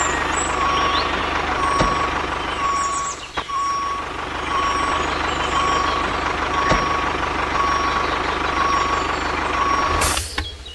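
Vehicle reversing alarm beeping steadily, a little faster than once a second, over a running engine's steady hum. Both cut off about ten seconds in.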